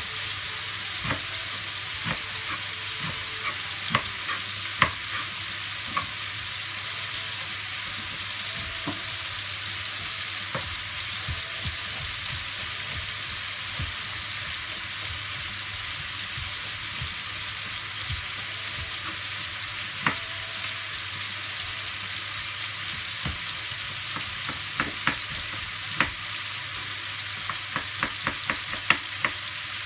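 Diced smoked pancetta and garlic sizzling in a wok with a steady hiss. Sharp clicks of a knife striking a plastic cutting board come now and then, most of them in the first few seconds and in a cluster near the end.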